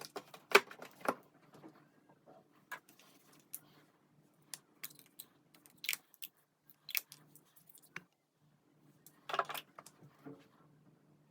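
Small hard objects handled at close range: scattered light clicks and taps, with a short rustle about nine seconds in, over a faint steady low hum.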